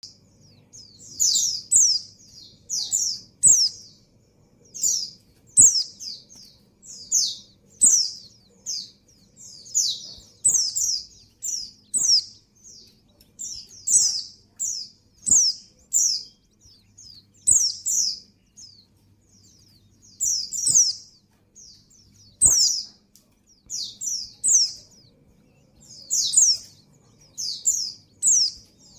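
Female white-eye (pleci) calling in breeding condition to attract a male: short, high chirps falling in pitch, in quick groups of two or three, repeated about every second.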